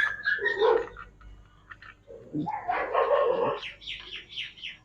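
A dog barking and yelping in short bursts, a few near the start and a longer run from about two seconds in.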